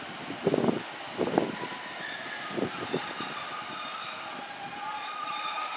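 A diesel multiple-unit passenger train moving at the platform, with a few knocks from the wheels and faint high squealing from the wheels on the rails.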